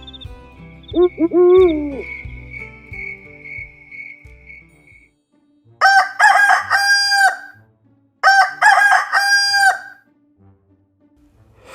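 A rooster crows twice, each crow about a second and a half long, a couple of seconds apart, the morning signal as night ends. Before the crows, soft music plays with a short hooting call about a second in.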